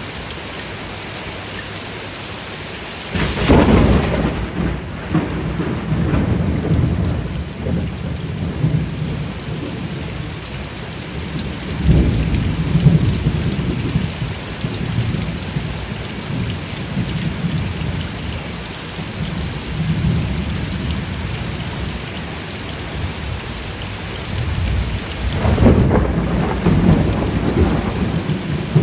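Steady rain with thunder: a sharp thunderclap about three seconds in rolls into long low rumbling, which swells again partway through, and a second clap and rumble come near the end.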